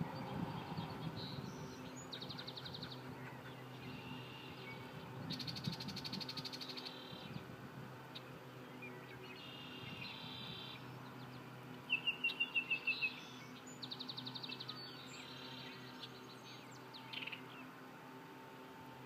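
Yellow-breasted chat singing a string of separate, varied phrases with pauses between them: rapid rattles and harsh chatters, and a quick run of about eight clear notes about twelve seconds in, which is the loudest phrase.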